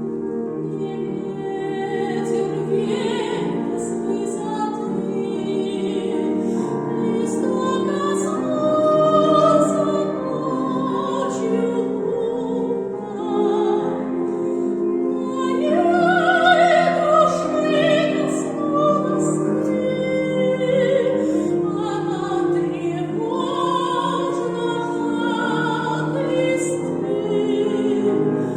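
Classical singing with piano accompaniment: a Russian romance sung in operatic style, with long held notes carrying a wide vibrato over a sustained piano part.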